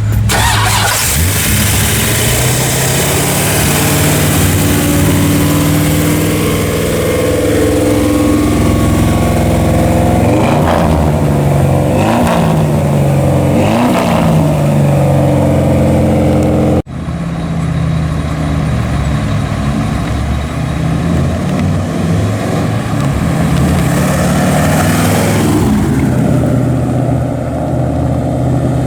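Rumble of a 383 stroker V8 with headers and full exhaust, running steadily and revved up and back down several times around the middle. After a sudden cut it runs steadily again, with one more rev near the end.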